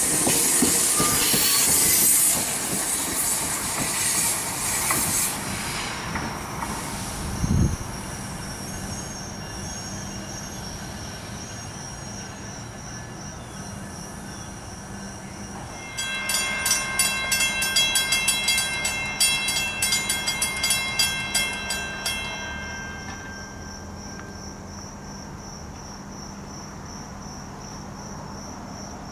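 NJ Transit Multilevel commuter train pulling out, its wheel and rail noise loud at first and fading away over the first six seconds. About halfway through, a ringing, rapidly pulsing signal sounds for about six seconds, over steady cricket chirping.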